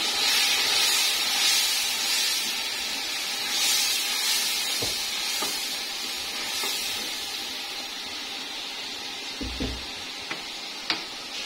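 Onion, tomato and ground-spice masala sizzling in hot oil with a little water just added to keep the spices from burning, a steady hiss that eases off slowly. A few light clicks and a soft knock near the end, like a spoon against the pan.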